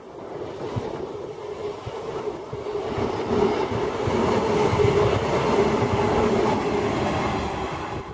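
Queensland Rail electric multiple-unit train passing close at speed: wheels rumbling on the rails with a steady hum, louder through the middle and easing off near the end as it draws away.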